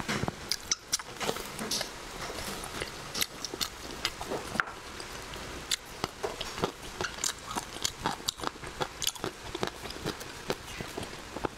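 Close-miked chewing and biting of glossy pork belly with cilantro, with many irregular wet mouth clicks and smacks.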